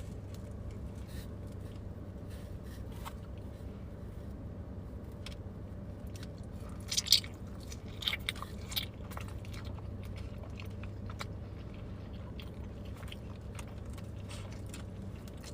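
A person chewing and biting into food close to the microphone, with a few louder crunchy bites about halfway through, over a steady low hum.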